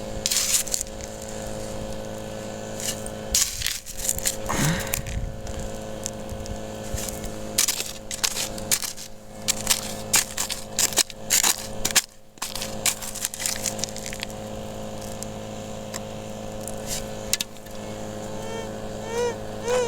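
Rocks and gravel crunching and clicking as a metal-detector target is dug out of a tailings pile, over a steady low hum. Near the end a warbling tone rises and falls a few times, the metal detector signalling the target.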